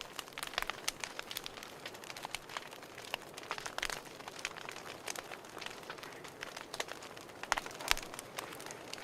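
Wood fire crackling: a soft steady hiss with irregular sharp pops and snaps, a few louder pops around four seconds in and near the end.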